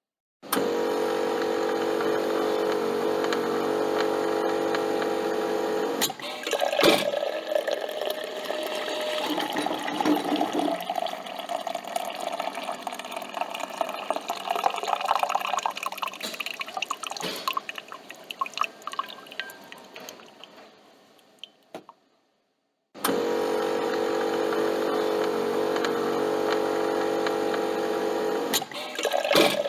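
Coffee machine humming steadily for about five seconds, then coffee streaming and sputtering into a cup, trailing off into drips until it stops. After a brief silence the machine's hum starts again, and liquid begins to flow near the end.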